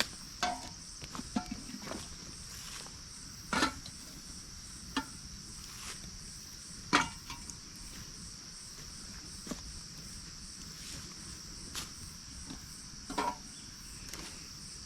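Steady, high-pitched chorus of night insects with a fast pulsing trill. Scattered knocks and clatters from camp gear being handled break in every second or two.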